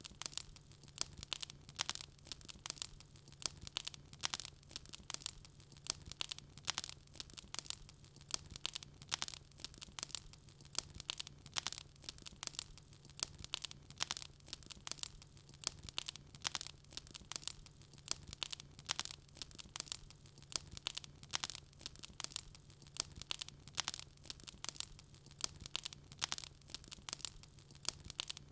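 Wood fire in a fireplace crackling steadily, with many sharp irregular pops and snaps, several a second, over a faint low hum.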